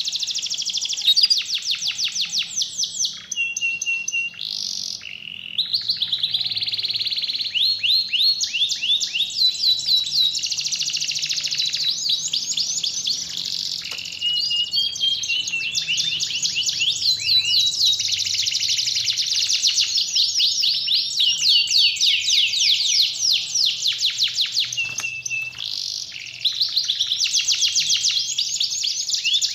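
Domestic canary singing in full song: long, fast trills and rolls, broken now and then by short steady whistled notes and brief pauses.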